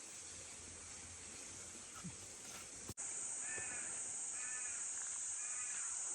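A crow cawing three times, about a second apart, over a steady high-pitched hiss that starts abruptly about three seconds in.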